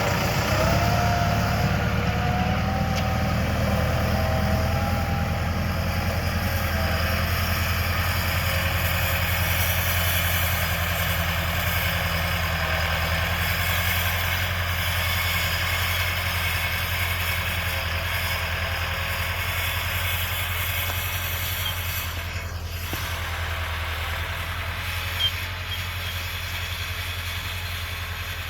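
Tractor diesel engine running steadily as it works a field, with one short sharp tick near the end.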